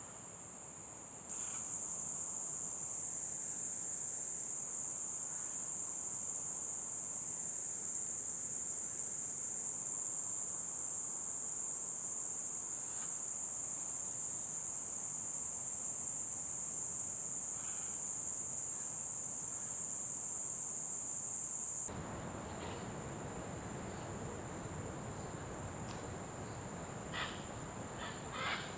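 Tropical insects buzzing in one steady high-pitched drone. It jumps louder about a second in and drops suddenly to a thinner, quieter tone about three-quarters of the way through, with a few faint short calls near the end.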